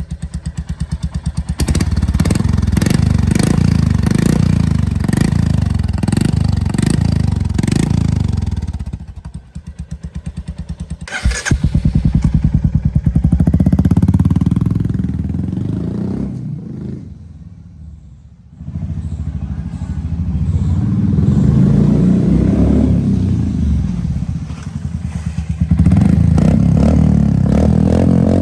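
Royal Enfield Hunter 350's single-cylinder engine running without its exhaust silencer, very loud; it is revved up several times and drops back toward idle in between, nearly cutting out about two thirds of the way through.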